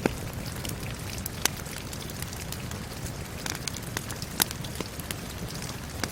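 Steady rain with a crackling wood fire: a continuous hiss and low rumble, broken by irregular sharp pops, two of them louder than the rest.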